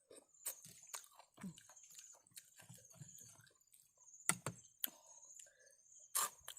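A person chewing a spicy seafood papaya salad close to the microphone: irregular wet crunches and mouth clicks, with sharper crunches about four seconds in and again near the end.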